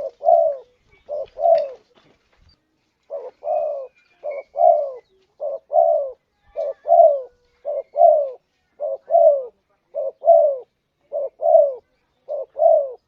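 Spotted dove cooing: a steady series of two-part coos, a short note followed by a longer, arched one, repeating about once a second, with a brief pause about two seconds in.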